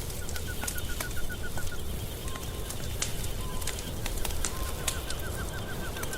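Wood fire in a fireplace crackling, with frequent sharp pops over a low steady rumble. Twice a rapid run of short chirping notes, several a second, sounds over the fire.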